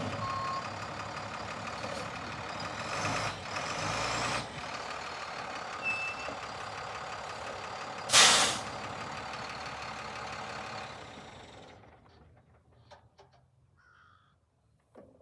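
International DT466 diesel engine of a 2006 International 4400 bucket truck running, with the reversing beeper stopping just after the start, hissing air at about three to four seconds, and one loud burst of air brake hiss about eight seconds in. The engine sound dies away about eleven seconds in.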